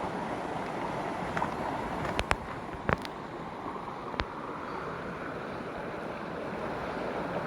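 Mountain stream water rushing steadily, with a few sharp clicks and knocks about two to four seconds in.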